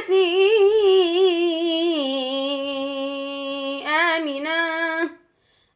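Male Quran reciter's voice chanting in melodic tajwid style, drawing one word out over long ornamented notes. The pitch steps down about two seconds in, climbs again near four seconds, then breaks off into a brief pause for breath.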